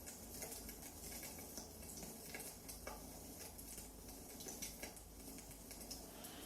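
Burning firewood crackling softly: many small irregular pops and snaps over a faint steady hiss.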